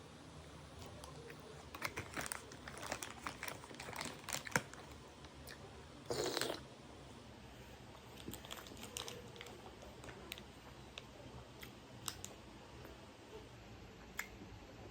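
Close-miked eating of spicy instant noodles: a run of small clicks and chewing sounds, one short louder noisy sound about six seconds in, then sparse faint clicks.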